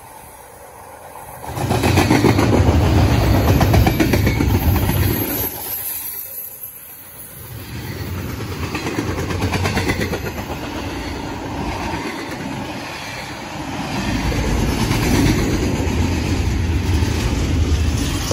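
Train passing close by: a heavy low rumble with fast, closely packed clacks of wheels on the rails. It starts suddenly about a second and a half in, eases off around six to seven seconds, and builds again toward the end.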